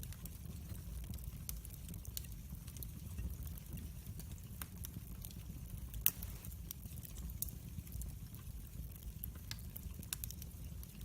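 Wood fire in a fireplace crackling: irregular sharp pops and snaps over a steady low rumble of the flames, with one louder pop about six seconds in.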